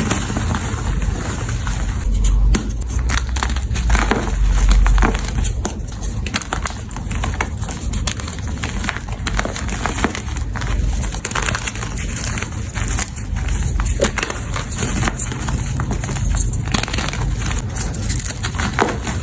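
Blocks of powdery gym chalk crushed and crumbled close to the microphone: a dense, irregular run of crunches and crackles, with a deep low rumble from about three to five seconds in.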